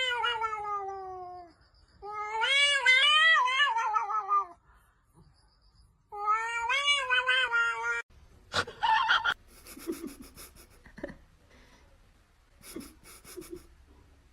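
A cat yowling in three long, drawn-out meows, the first falling in pitch and the second wavering up and down. After them comes a short, sharp sound, then softer scattered noises.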